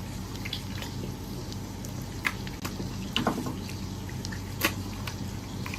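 Chewing and gnawing on roast lamb leg: scattered small clicks and wet mouth sounds over a steady low hum.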